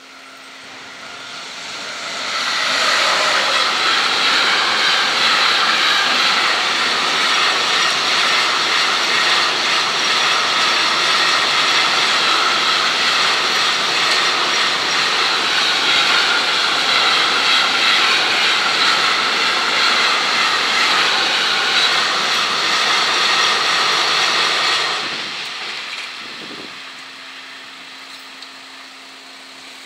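Container freight train passing close by. The sound of its wheels on the rails builds over the first couple of seconds, holds steady, and drops away suddenly about 25 seconds in as the last wagon goes by.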